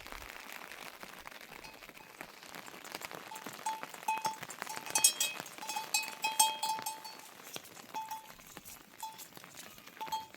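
Small metal livestock bell clinking in short irregular rings, busiest in the middle of the stretch and thinning out toward the end, over a faint steady hiss.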